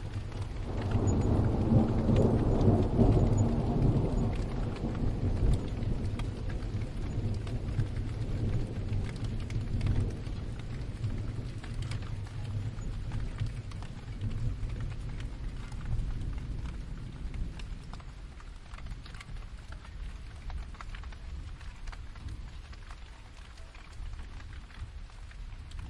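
Distant thunder rolling over steady rain: a low rumble swells about a second in, peaks over the next few seconds and slowly dies away, swelling once more near the middle.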